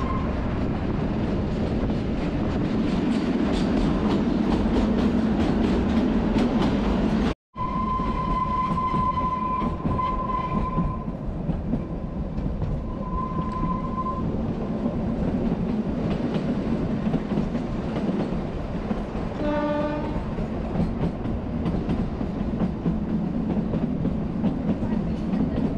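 Kalka–Shimla narrow-gauge toy train running, heard from a carriage window: a steady train noise with clicks from the wheels on the rails. After a brief dropout about a third of the way in, a high horn sounds in two blasts, a long one and then a shorter one. A short, lower-pitched horn note comes about three quarters of the way through.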